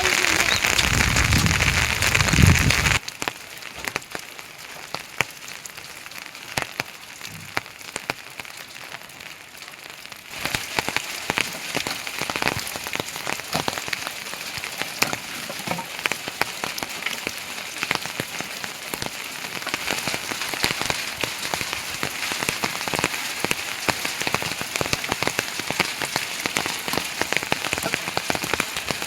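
Heavy rain falling, with many individual drops tapping on a surface. A louder stretch with a low rumble cuts off suddenly about three seconds in, and the rain grows louder again about ten seconds in.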